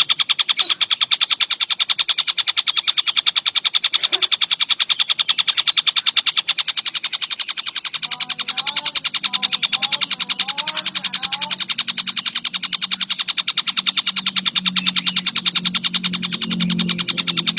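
Tengkek buto kingfisher calling non-stop: a fast, unbroken rattle of high, sharp notes, many per second. A faint low hum joins in about halfway through.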